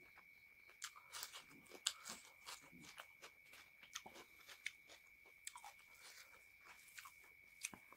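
Close-miked eating sounds: wet chewing and lip smacks in quick, irregular clicks, from a person eating chicken curry and rice by hand.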